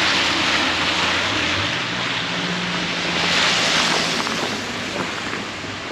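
Road traffic passing: a rushing noise swells at the start and again about three and a half seconds in, over an engine hum that rises in pitch about a second and a half in.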